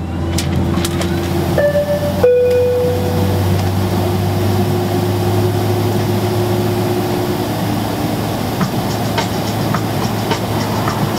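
Steady low hum and rush of a Boeing 767-300ER airliner cabin. About two seconds in comes a two-note chime, high then lower, and a few light clicks follow near the end.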